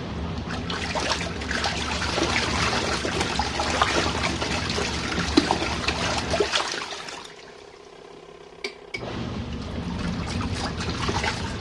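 Compact RV washing machine agitating a cold-water rinse: its wash motor hums under sloshing, splashing water. The motor and splashing stop for about two seconds past the middle, then start again.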